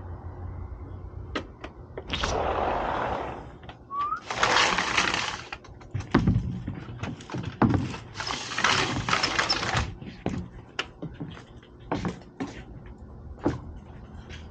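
Squirrel cracking nut shells: a run of sharp cracks and clicks, with three bursts of rustling noise about two, four and eight seconds in.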